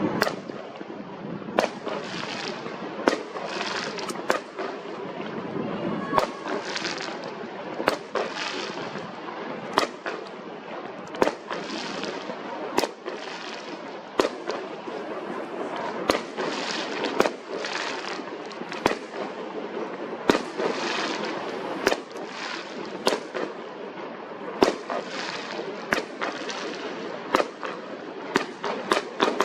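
Fireworks going off in a continuous barrage: sharp bangs about every second or so over constant crackling.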